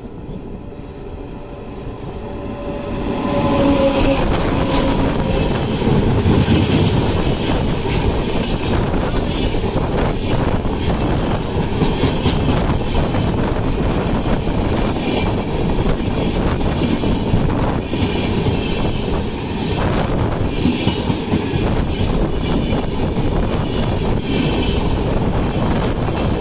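A train passing close by, its wheels clattering and rumbling on the rails. The sound grows louder over the first few seconds, then holds as a steady run of clatter.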